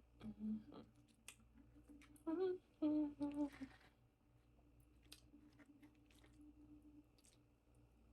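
A woman hums a few short closed-mouth notes while eating, about a second apart in the first half, with faint small clicks of chewing and utensils around them.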